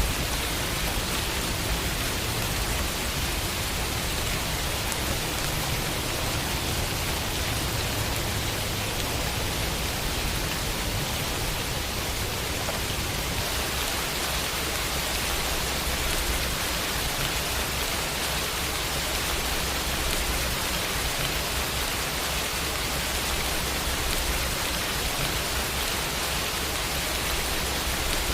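Steady rain falling against a window, an even hiss with a low rumble beneath.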